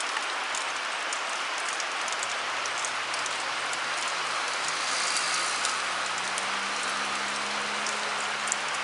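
Steady rain falling. Under it, the 80cc two-stroke engine on a motorised bicycle running, faint at first and growing clearer from about three seconds in as the bike rides nearer.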